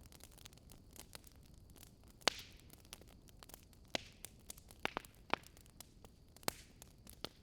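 Burning firewood crackling: scattered sharp pops and snaps at irregular intervals, several of the louder ones trailing a brief hiss.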